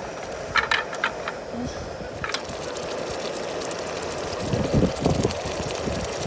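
Strong gusty wind buffeting the microphone as a steady low rumble, swelling into heavier thumping gusts about five seconds in, with a few light clicks in the first half.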